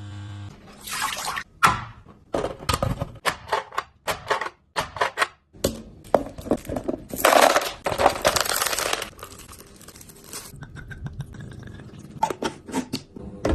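Packing groceries into a fridge: a string of clicks and knocks from containers and packets being set down, with a stretch of rustling or tearing packaging about seven seconds in.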